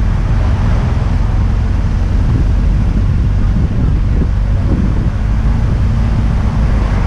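Wind rushing over the microphone of a moving motorcycle, with the steady drone of its engine underneath.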